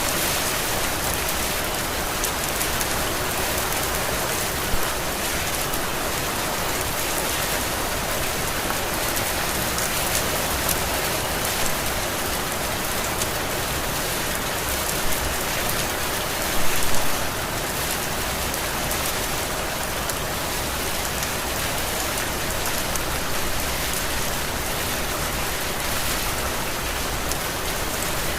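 Steady heavy rain falling on surfaces. It hisses evenly, with a few brief louder splashes, the biggest about 17 seconds in.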